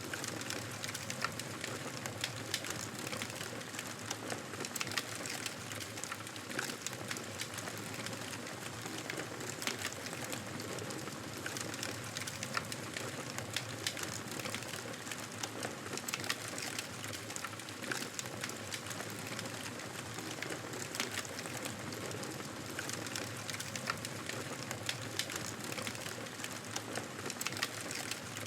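Wood fire burning in a fireplace, a steady hiss of flames with frequent small crackles and pops scattered throughout.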